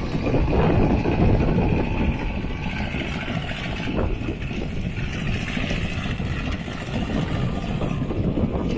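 Mini tractor's engine running steadily while ploughing a muddy field.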